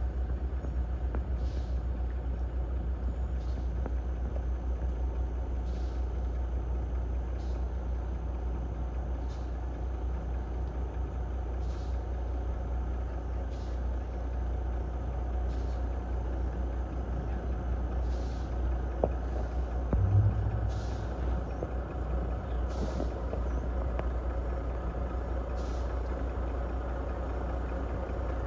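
Heavy truck engine running steadily, a low hum, with a short louder sound about twenty seconds in.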